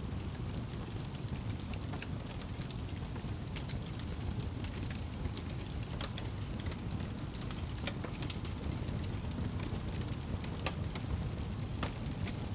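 Crackling wood fire over a steady hiss and rumble of rain, with scattered sharp pops every second or two.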